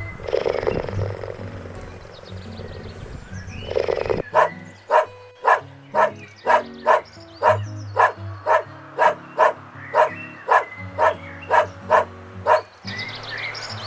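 A dog barking over and over, about two barks a second, from about four seconds in until shortly before the end. Before the barking there is a lower, rougher animal sound, and background music runs underneath throughout.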